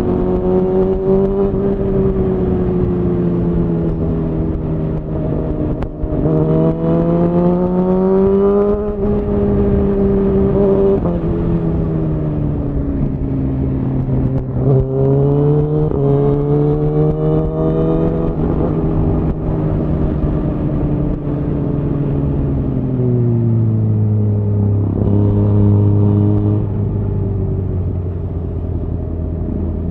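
Suzuki GSX-R1000R's inline-four engine through a Yoshimura R-11 SQ exhaust, riding on the road. It revs up and eases off several times, the pitch climbing and falling, then drops to a steady low-rev run for the last several seconds.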